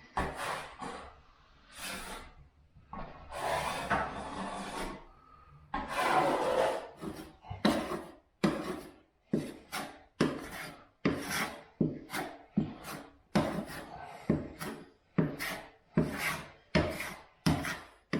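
Flat plastering knife scraping jointing compound across a wall, feathering it out over mesh tape: a run of scraping strokes, a few longer sweeps at first, then short quick ones nearly two a second.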